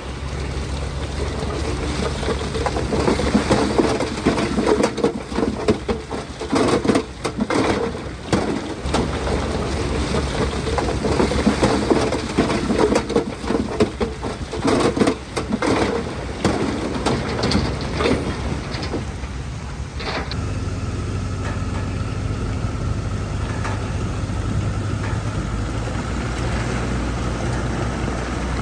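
Heavy diesel earthmoving machinery running while rock and dirt are pushed and dumped, with irregular crunching and clattering of stone for about the first twenty seconds. After that the clatter stops and the engine runs on steadily.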